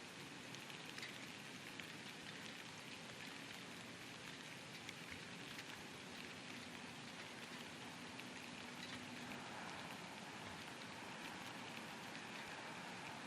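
Steady light rain falling, with scattered ticks of single drops hitting a surface.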